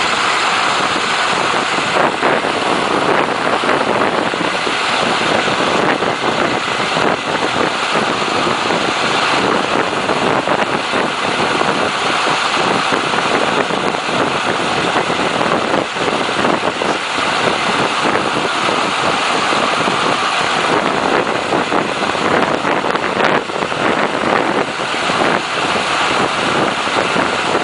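Ice boat travelling fast over ice: a loud, steady rush of runner and wind noise that flickers but does not change over the whole stretch.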